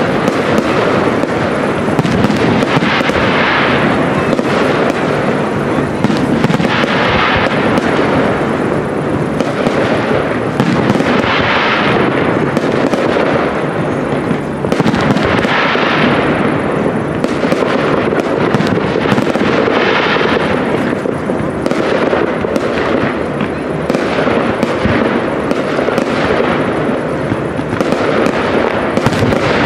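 Aerial fireworks display: shells launching and bursting in quick succession, a constant mix of bangs and crackle. Swells of crackle come about every four seconds.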